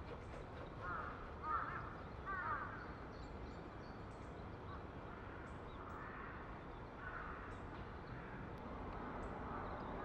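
Birds calling outdoors: clusters of short, harsh, arching calls about one to two and a half seconds in, again around six to seven seconds, and near the end, with faint high chirps between.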